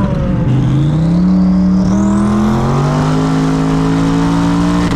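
Twin-turbo Mustang Cobra engine pulling hard at wide-open throttle on its highest boost setting, its pitch climbing steadily, with a high whistle rising over the first couple of seconds. The pitch drops suddenly near the end as it shifts up a gear.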